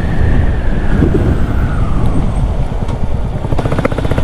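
Royal Enfield Bullet 350's single-cylinder engine running under way on the road, with a high whine that falls in pitch over the first two seconds. From about three and a half seconds in, the engine's individual firing beats come through evenly.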